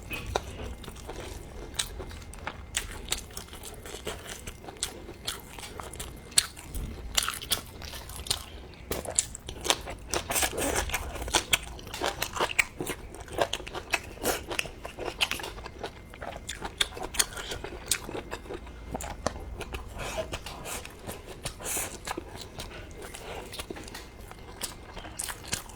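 Close-miked eating: a person biting and chewing a chewy, springy food, with dense, irregular crunchy clicks and wet mouth sounds.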